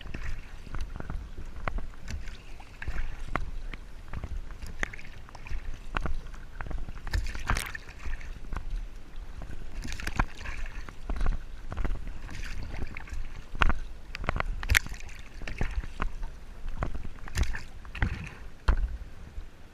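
Kayak on open water: paddle splashes and water sloshing against the hull, with irregular knocks over a steady low rumble.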